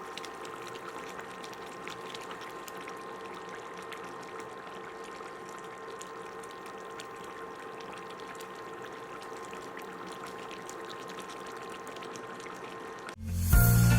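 A steady hiss with a faint hum and light scattered ticks. Loud music cuts in suddenly about a second before the end.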